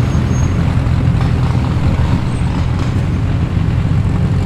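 A car engine running steadily at low revs with a deep, even rumble as the car rolls slowly in.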